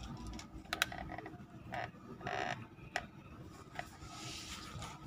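A few scattered light clicks and taps, irregular, with a brief soft hiss near the end.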